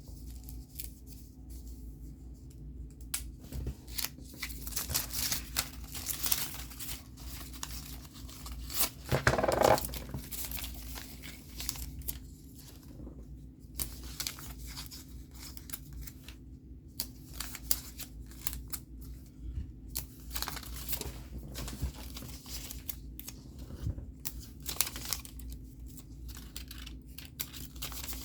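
Paper being handled: sheets rustling and crinkling, with many short clicks and snips, a louder burst of crackling about a third of the way through, and a steady low hum underneath.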